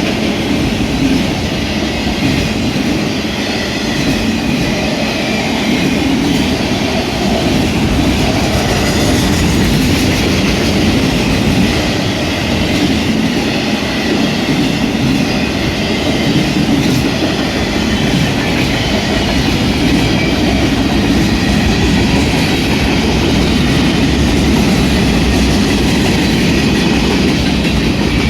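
Freight cars of a manifest train rolling steadily past at close range: a loud, continuous rumble of wheels on rail, with faint high wheel squeal over it.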